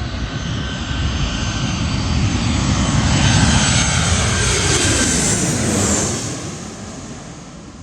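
Jet airliner passing low overhead: engine noise builds to a loud peak with a steady whine, then drops in pitch and fades as it goes by.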